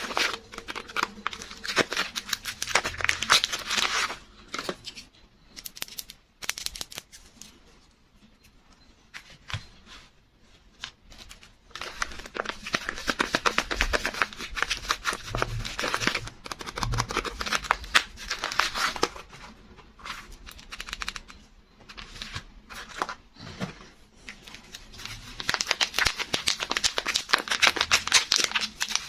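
Soap packaging being unwrapped by hand: wrappers crinkling and tearing in dense crackly stretches, with quieter handling between them.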